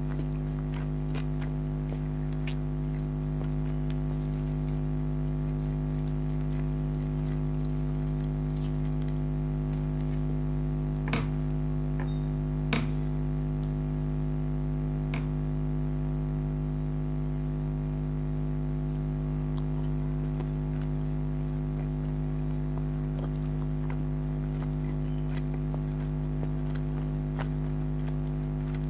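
Close-miked eating sounds: scattered soft clicks and wet squishes from chewing and handling the food, with two sharper clicks a little before halfway. A steady low electrical hum runs under it all.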